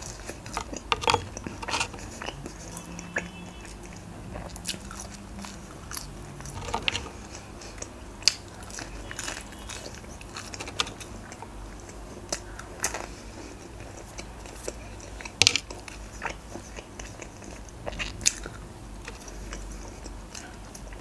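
A person chewing and eating french fries close to the microphone, with scattered short, sharp mouth clicks.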